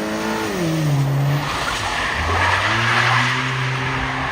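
Car engine revs dropping, then tyres skidding across the surface with a broad hiss as the engine picks up again during a drift.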